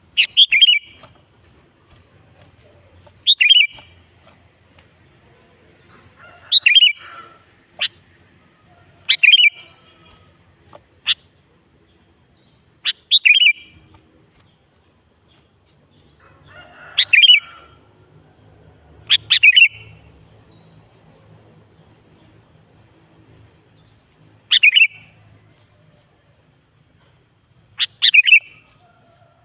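Sooty-headed bulbul (kutilang) singing: short, loud, bubbly phrases, about ten of them, each under a second, repeated every two to four seconds.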